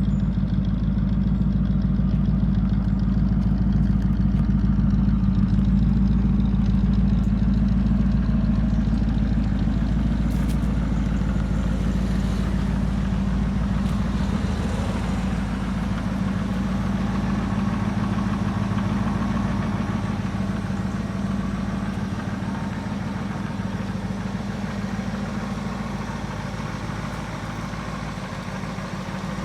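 1967 Ford Mustang's 289 cubic-inch V8 idling steadily, with a deep, even exhaust note. It grows slightly quieter through the second half.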